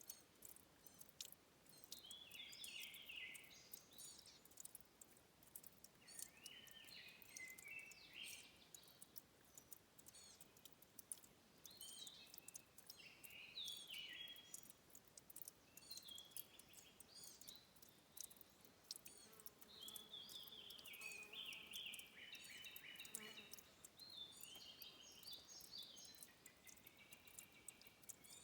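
Faint forest birdsong: a songbird repeating short phrases of quick stepped notes every few seconds, over many faint high ticks.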